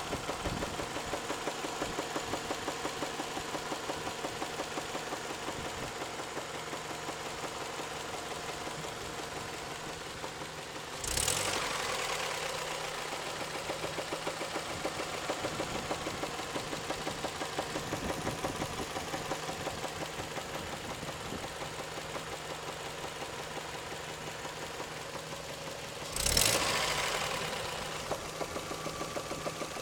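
Warm Toyota 3S-FE inline-four engine running with a rapid, regular knocking tapping through it, a knock of unknown cause that only appears once the engine is warm. Two brief louder surges come about a third of the way in and near the end.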